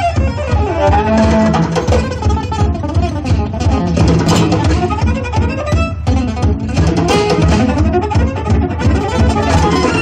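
Live gypsy-jazz band music: fast, intense playing with violin, acoustic guitar and upright bass.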